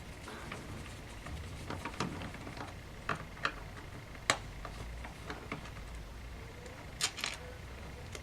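Scattered small clicks and taps of a Phillips screwdriver and screws being worked out of a laptop's case, the sharpest tap about four seconds in and a quick cluster of clicks near the end.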